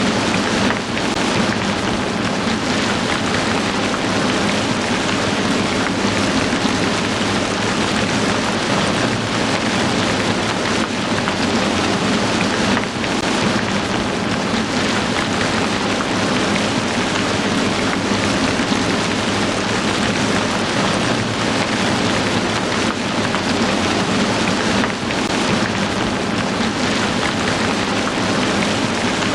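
Heavy rain falling steadily, a dense even hiss of drops with no pauses.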